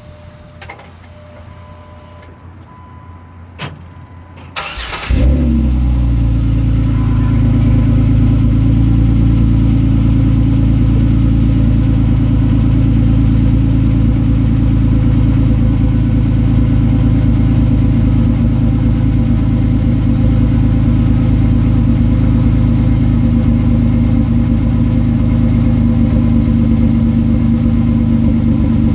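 Jeep Wrangler JK's 3.8-litre V6 starting about five seconds in, after a click and a few faint tones, then idling steadily through a Thrush chamber muffler on an exhaust shortened and opened up to 3-inch pipe.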